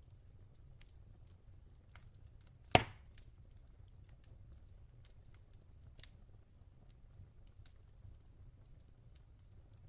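Log fire burning with sparse soft crackles over a low, steady rumble. One sharp, loud pop comes about three seconds in and a smaller one about six seconds in.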